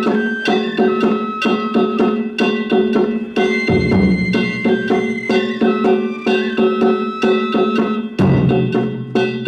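Danjiri float narimono drums and gongs playing a quick, steady beat of about four strikes a second, with ringing metallic tones. Deeper, heavier drum strokes come in twice, about four and eight seconds in.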